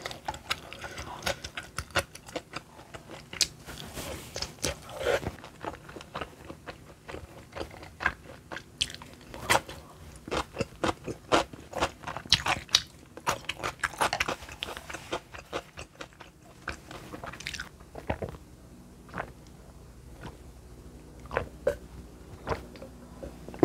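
Close-miked chewing and biting of food, a run of many small wet clicks that thins out over the last few seconds.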